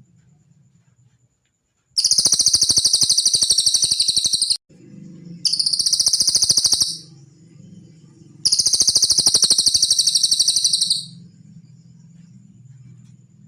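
Cililin songbird singing three long, very fast, high-pitched trills, each a rapid run of repeated notes, with short pauses between them. A faint steady low hum runs underneath.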